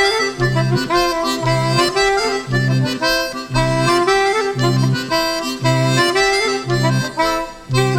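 Folk band playing a chapelloise dance tune: a reedy melody over low bass chords that sound about once a second.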